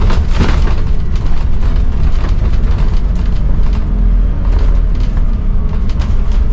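Scania N280UD double-decker bus under way, its five-cylinder diesel engine and drivetrain giving a steady low rumble inside the bus. Short clunks and rattles come through the body, with a brief louder swell of noise at the start.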